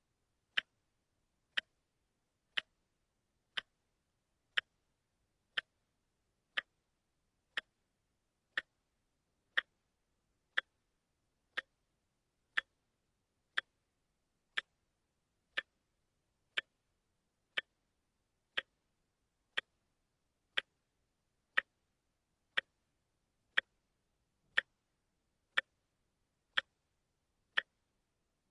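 A watch ticking steadily, one sharp tick each second.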